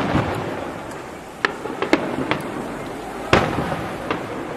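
Aerial fireworks shells bursting overhead: about five sharp bangs, the loudest about three-quarters of the way through, each trailing off in a rumbling echo that fills the gaps between them.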